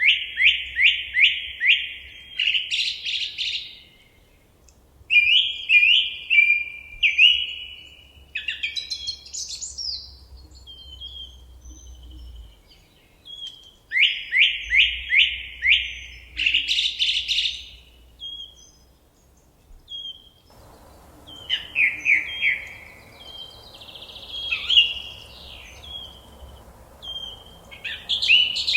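Forest songbirds singing. A phrase of five or six quick falling notes that ends in a higher, rough flourish comes twice, with shorter chirps and calls between. About two-thirds of the way through, a steady background hiss comes in.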